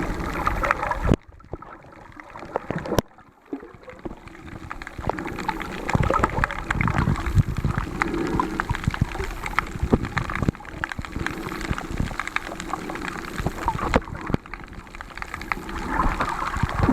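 Underwater sound as picked up by a camera: water gurgling and bubbling, with many sharp crackling clicks. It drops quieter for a couple of seconds near the start and then returns.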